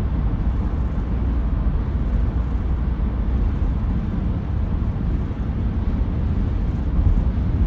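Steady low rumble with a faint hiss, like vehicle noise, with no distinct events.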